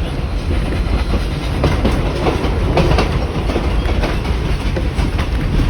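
Heritage passenger carriage rolling along the track, heard from on board: a steady low rumble with irregular clickety-clack of the wheels over rail joints.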